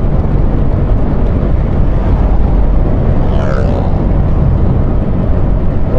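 Motorcycle riding through rain, heard from the rider: a loud, steady rumble of wind buffeting the microphone over the vehicle and wet road noise.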